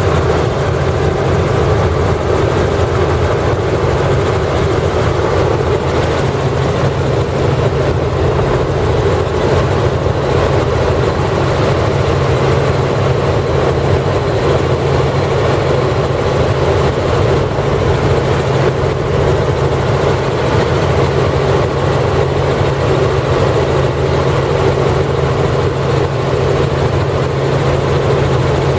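Helicopter engine and rotor running with a steady, unchanging drone.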